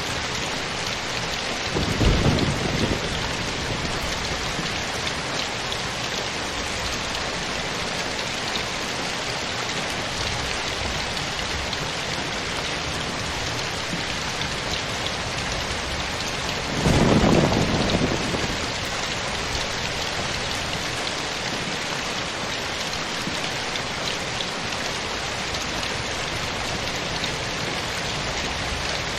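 Steady rain falling, with two short low rumbles of thunder, one about two seconds in and a longer one around seventeen seconds in.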